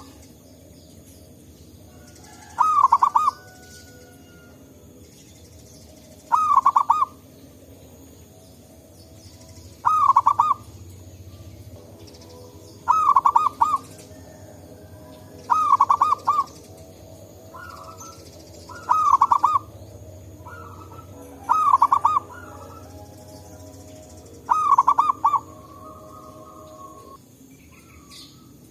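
Zebra dove (perkutut) cooing song: a short run of rapid coo notes about three-quarters of a second long, repeated eight times at roughly three-second intervals, over a steady faint background.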